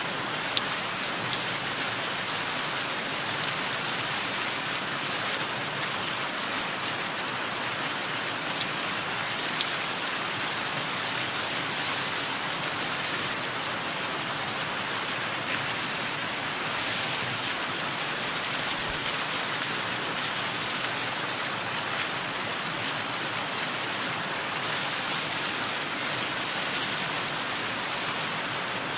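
Steady rain falling, with small birds chirping over it: short high chirps and a few quick trills every few seconds.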